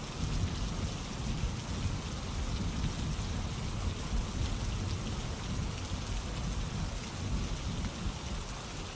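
Steady rainfall pattering on a surface, with a low rumble underneath.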